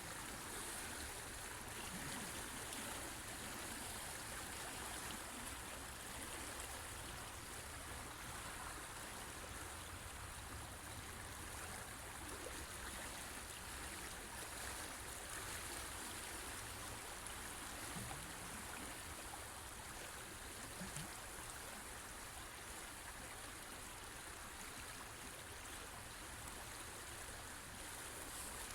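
A river or stream rushing and babbling steadily over rocks, an even wash of water noise.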